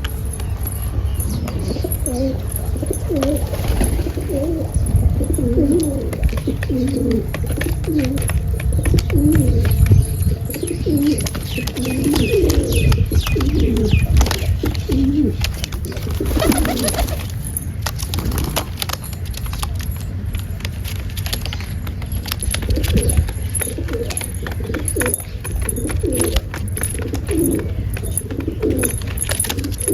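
Pigeons cooing repeatedly, in short low calls over a steady low rumble, with a few higher chirps midway.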